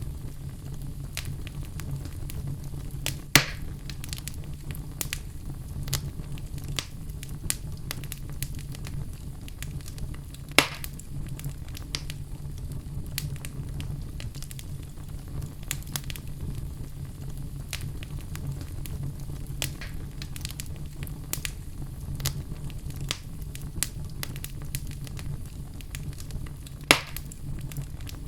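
Fire burning in a fireplace, crackling steadily over a low rumble, with three louder pops.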